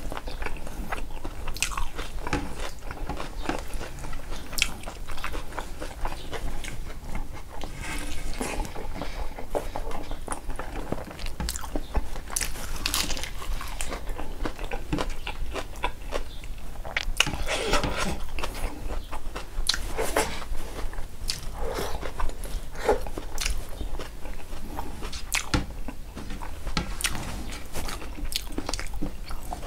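A man chewing and biting mouthfuls of rice eaten by hand, with many short clicking mouth sounds.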